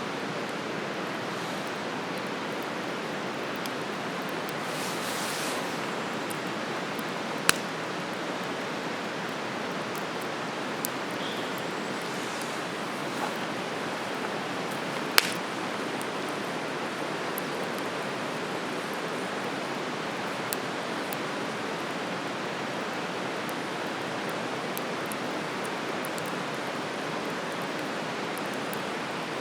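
Wood campfire burning with a steady rushing hiss and occasional sharp crackles, two loud pops about seven and fifteen seconds in.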